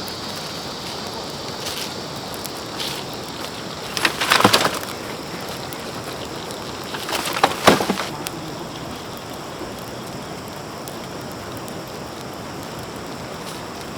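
Two short bursts of wooden knocking and clattering, about four seconds and seven and a half seconds in, with a few faint taps in between, over a steady hiss.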